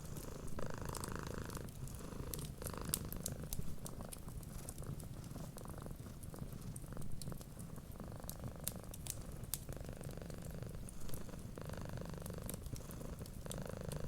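A domestic cat purring steadily, the purr swelling and easing with each breath every second or two, over scattered sharp pops and crackles of a wood fire in a fireplace.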